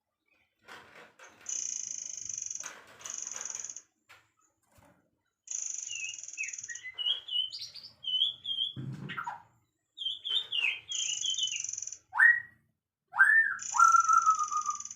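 Songbirds singing: high buzzy trills about a second long alternate with jumpy whistled phrases, and several rising whistles and one slowly falling whistle come near the end. A single low thump sounds about nine seconds in.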